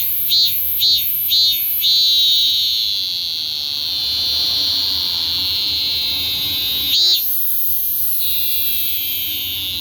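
Cicada singing: a run of short pulsed calls about two a second, then a long continuous buzz from about two seconds in. It breaks off briefly with one pulse near seven seconds, then the buzz starts again.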